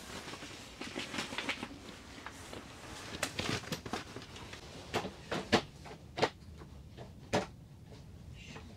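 A series of irregular, sharp knocks and clicks over a faint background hiss, the loudest a little past halfway.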